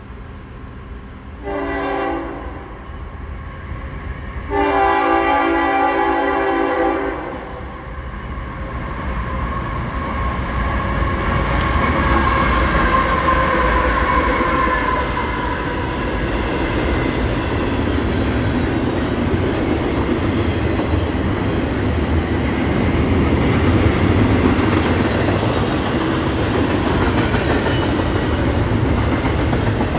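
Freight locomotive air horn sounds a short blast, then a long one, as a CSX intermodal train approaches. The train then passes close by: a low diesel rumble, followed by double-stack container cars rolling past with steady wheel-on-rail noise.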